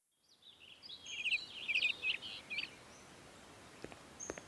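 Small birds chirping in a quick run of high, twittering calls, then a few faint clicks near the end: the morning birdsong effect of a cartoon wake-up scene.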